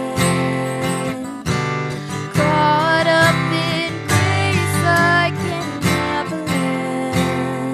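Worship band playing an instrumental passage: strummed acoustic guitar with sustained chords and a wavering lead melody above them.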